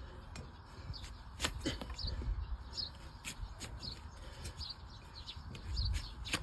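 Small birds chirping, short high calls repeated irregularly several times a second, with scattered sharp clicks and low thumps.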